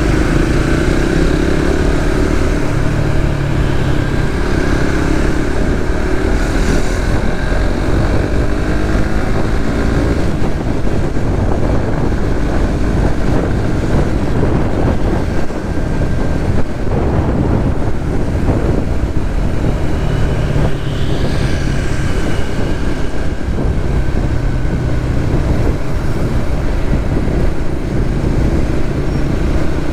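Suzuki GSX-S150's single-cylinder engine running under way in traffic, its pitch rising and falling a little with the throttle, over a steady low rumble.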